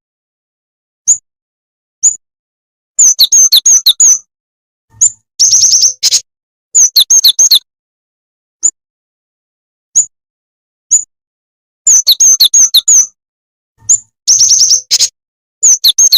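Recorded lure call of the jing jing tetep bird: single sharp high chirps alternating with rapid bursts of chirps, the same sequence repeating about every nine seconds as a loop.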